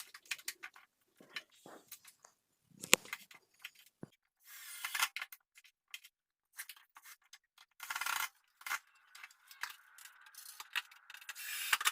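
Hand work on a cabinet: scattered clicks and knocks, clinks of small metal parts and several short scrapes, with one sharp click about three seconds in.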